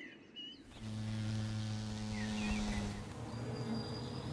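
Honeybees buzzing around hazel catkins: a steady wingbeat drone starts suddenly about a second in and eases slightly after about three seconds, with faint birdsong chirps at the start.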